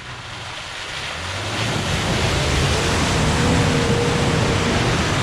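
A 4WD's engine running under load as it drives through a flooded mud hole, with water splashing and spraying around it; the sound grows louder over the first two seconds, then holds.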